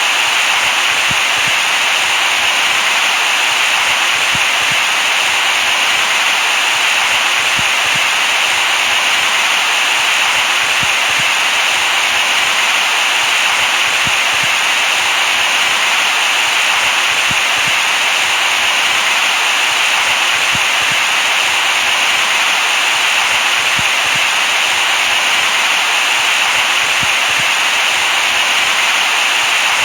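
Steady synthetic white noise, a constant hiss that is brightest in the upper middle and thin in the bass.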